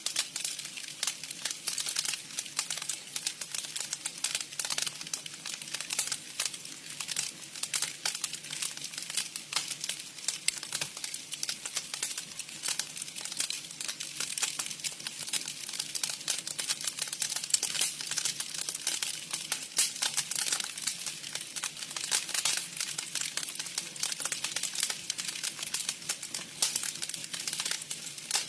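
Wood campfire crackling: a dense, irregular run of small snaps and pops that keeps going throughout.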